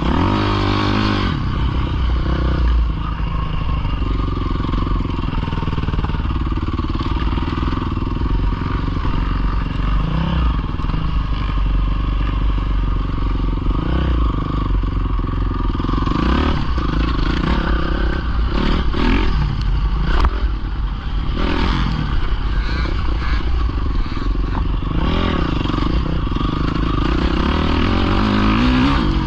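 Pit bike engine running under riding, its pitch rising and falling as the throttle is opened and closed, with a few sharper revs near the start and the end.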